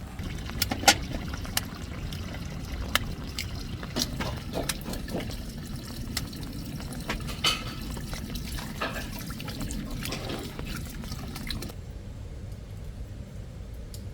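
Steady running-water noise with scattered sharp knocks and clicks; the water noise cuts off abruptly near the end.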